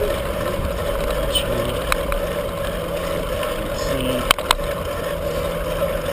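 Steady wind and road rumble on a bicycle-mounted camera while riding, with two sharp knocks close together about four seconds in.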